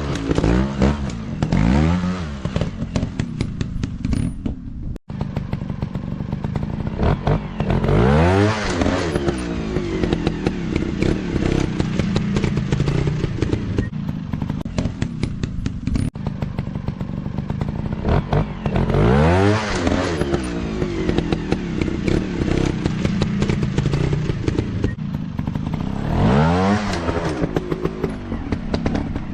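Dirt bike engines revving hard in repeated throttle bursts, the pitch sweeping up and falling back several times, over steady engine running with clattering knocks.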